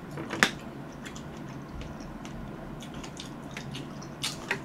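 Close-miked wet mouth sounds of chewing cherries, a run of small, sharp, moist clicks. The loudest is a single sharp click about half a second in, with a few more clustered near the end.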